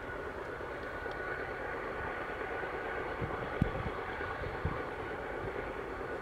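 BNSF GE diesel locomotives working under power as they pull a long grain train upgrade: a steady distant rumble with a thin steady high whine over it, and two brief low thumps near the middle.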